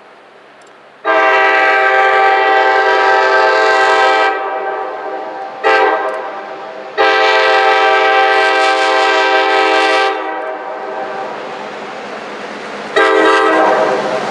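Train horn sounding in four blasts: long, short, long, then a short one near the end, over the rumble of the moving train.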